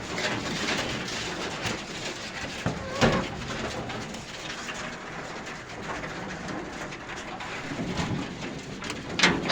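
Pigeons cooing in the background over the rustling and chewing of nutrias eating from their feed, with a couple of sharp knocks, about three seconds in and near the end.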